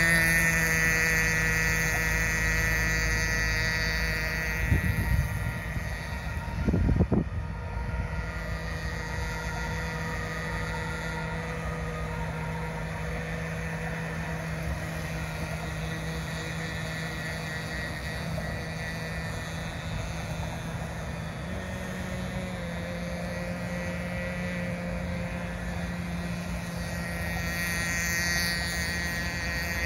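RC boat's nitro (glow-fuel) engine running at a steady high pitch, growing fainter over the first several seconds and rising slightly in pitch about two-thirds of the way through. Two brief thumps about five and seven seconds in.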